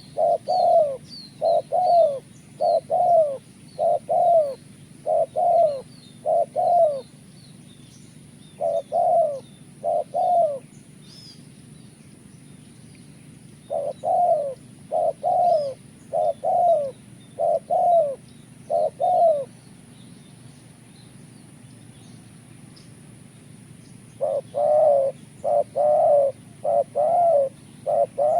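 Spotted dove cooing: runs of short, low, repeated coos in phrases of several notes, with pauses of a few seconds between phrases. Faint high chirps of small birds and a steady high-pitched whine sit behind it.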